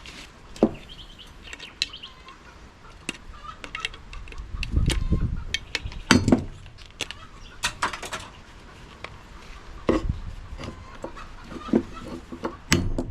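Metal parts and hand tools clinking and knocking during the dismantling of a fridge component, in irregular separate strikes with a couple of duller thuds.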